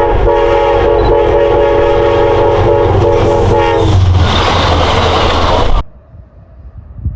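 A Long Island Rail Road diesel train's air horn blows one long, loud chord for about four seconds. It gives way to the loud rushing noise of the train passing close by, which cuts off abruptly about six seconds in.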